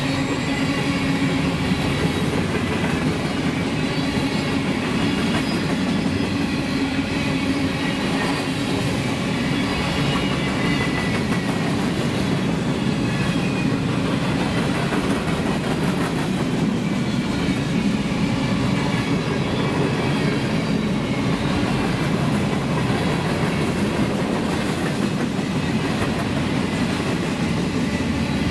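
Freight cars (covered hoppers and a centerbeam flatcar) rolling past close by: a steady rumble and clatter of steel wheels on the rails.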